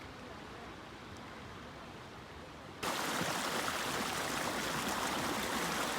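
Mountain stream water rushing steadily over rocks; a little under three seconds in it cuts abruptly to a louder, brighter rush that then holds steady.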